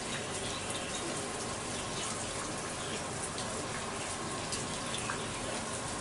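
Heavy rain falling steadily, with scattered light ticks over it.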